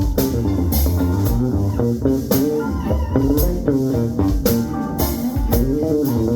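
Live band playing: a guitar line with bending notes over bass guitar and drum kit, with cymbal hits keeping a steady beat.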